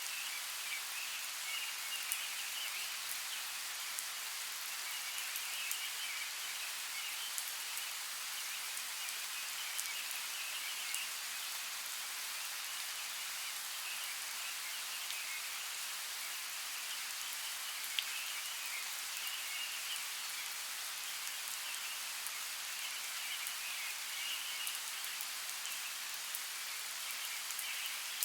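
Steady hiss of running creek water, with scattered faint ticks and a high chirring chorus that comes and goes in patches of a second or two.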